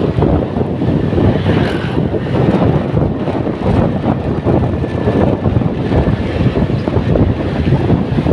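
Steady motor rumble with wind buffeting the microphone.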